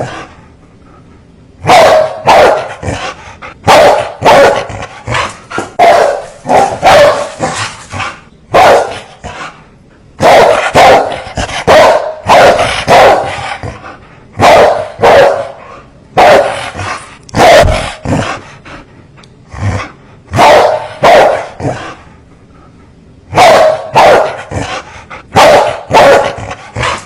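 Fierce dogs barking over and over, in runs of several sharp barks broken by short pauses.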